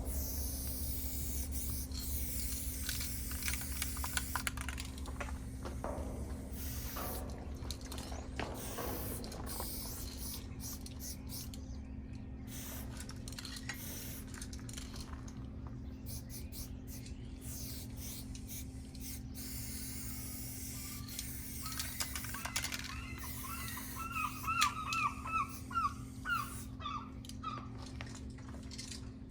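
Aerosol spray paint can hissing in short on-off bursts. About three-quarters of the way through, a quick run of short, high squeaky chirps joins in.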